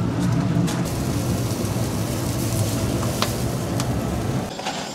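Wood fire burning in a chicken-roasting grill: a steady hiss with a low hum underneath and a few sharp crackles. The hiss drops away near the end.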